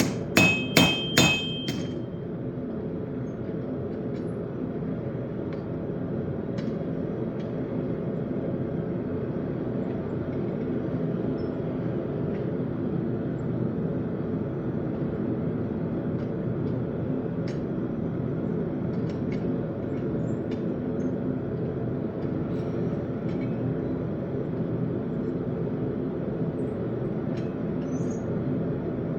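Four quick hammer blows on steel at the anvil in the first couple of seconds, each with a bright metallic ring, while a railroad spike is forged into a knife. After that a steady low rushing noise runs on, with a few faint scattered clicks.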